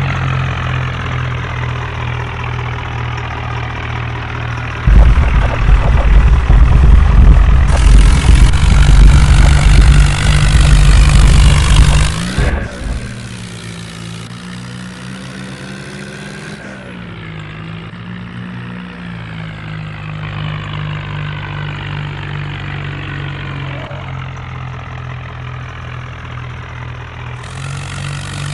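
HMT tractor's diesel engine running steadily. For several seconds about a fifth of the way in it gets much louder with a deep rumble, then drops back to a quieter, even run a little before halfway.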